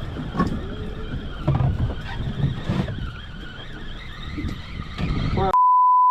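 Low steady rumble of a boat's engine under wind noise, with faint voices. Near the end all sound cuts out and a steady single-pitched bleep plays for about half a second, the loudest sound here.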